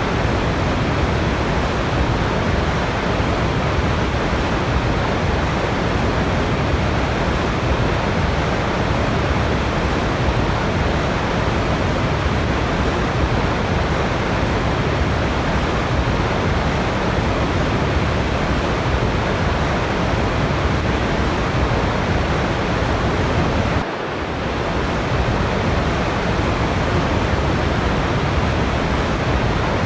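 Waterfall: a steady, even rush of falling water, dipping briefly in level about 24 seconds in.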